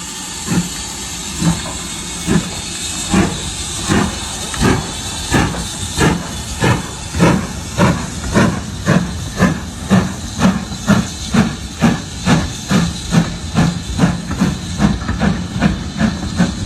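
Steam locomotive chuffing as it pulls away, its exhaust beats speeding up from about one a second to about three a second over a steady hiss of steam.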